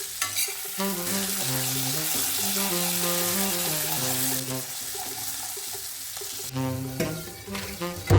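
Food sizzling as it fries in a pan, loudest for the first four seconds or so, over instrumental background music. There are a couple of short knocks near the end.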